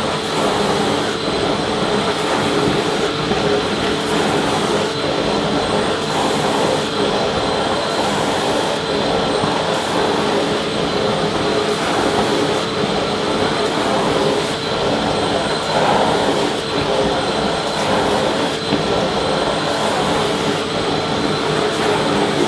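Vacuum cleaner motor running steadily: a constant rushing hiss of air with a steady motor whine over it.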